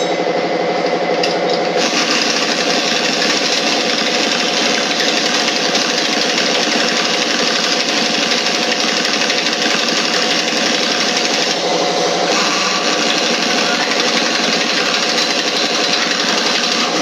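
A machine running steadily and loudly with a fast, even chatter, without a break.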